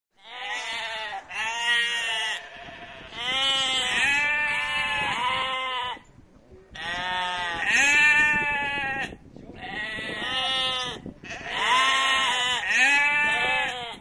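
A flock of sheep bleating: loud wavering bleats from several animals overlapping in long runs, with short breaks between them.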